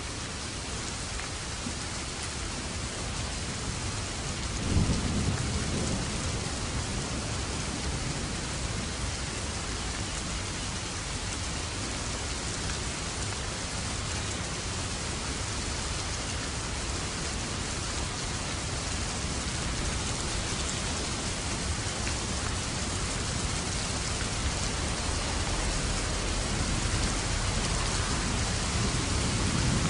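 Steady heavy rain with thunder rumbling: a deep roll of thunder about five seconds in, and another building near the end.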